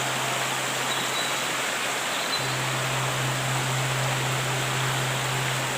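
Waterfall water rushing in a steady, even roar of noise, with a steady low hum underneath that fades briefly about two seconds in.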